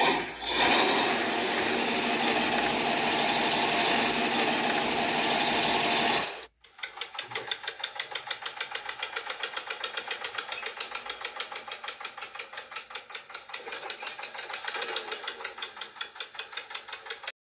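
Small electric motor of a miniature model tractor running with a steady whirr. About six seconds in it cuts off briefly, then comes back as a fast, even pulsing of about five beats a second.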